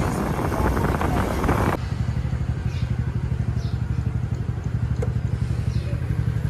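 Bajaj Pulsar NS125's single-cylinder engine. It is first heard riding by with wind rushing on the microphone, then, after a sudden cut, idling with a steady, even putter.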